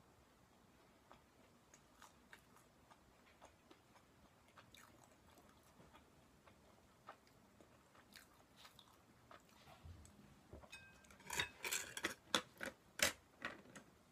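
Close-up mouth sounds of a person chewing food: faint, scattered wet clicks and smacks, becoming louder and more frequent in the last few seconds.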